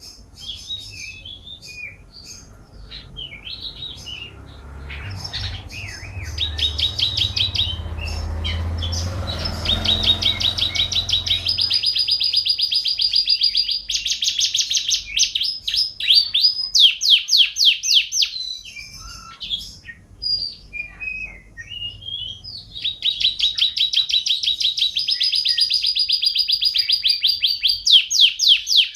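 Domestic canary singing: long, high, rapid rolling trills and runs of fast repeated sweeping notes, with a few seconds of scattered short chirps in the middle before the trills resume. A faint low rumble sits underneath during the first half.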